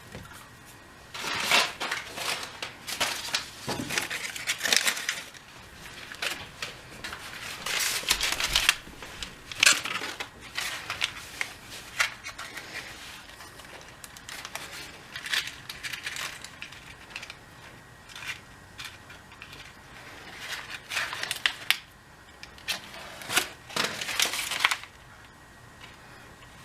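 Paper and cardboard being crumpled and handled in irregular bursts of rustling and crunching while a fire is laid with household paper waste.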